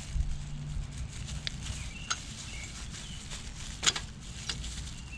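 A few sharp clicks and taps from handling small carburetor parts, the loudest about four seconds in, over a low steady hum. Short bird chirps repeat in the background.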